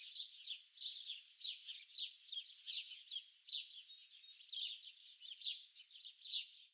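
Small songbirds chirping and twittering in a dense chorus of quick, high notes that mostly slide down in pitch, several a second.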